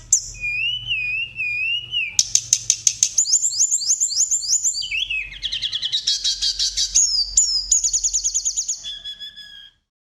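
Songbird song: a wavering whistle for the first two seconds, then rapid trills and quickly changing phrases of high notes. It cuts off abruptly shortly before the end.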